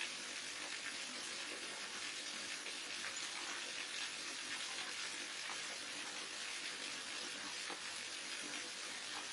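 Waterfall: falling water splashing in a steady, even hiss that neither pauses nor changes.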